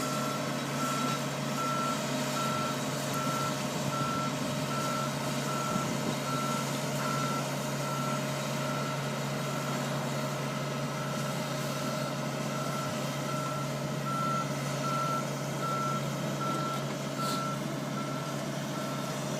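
Reversing alarm of a heavy vehicle, most likely the crane, beeping steadily and evenly over the low, steady running of its diesel engine as it backs up.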